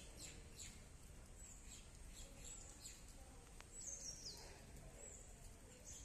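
Faint birdsong: repeated high chirps and short whistles that slide downward in pitch, with a clearer call about four seconds in, over a low steady background hum of outdoor noise.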